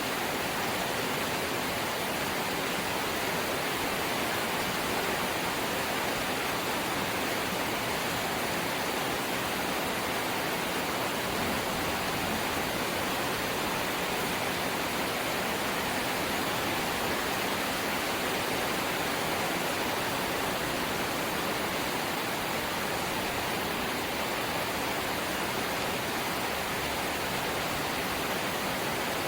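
Rain falling steadily on a corrugated zinc (seng) roof, an even hiss with no breaks.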